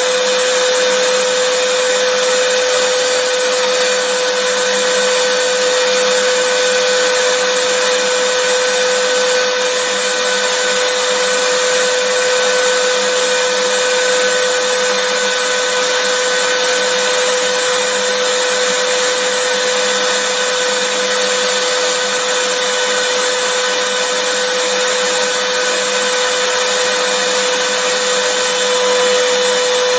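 Vacuum cleaner running steadily: a constant loud rushing of air with a steady motor whine.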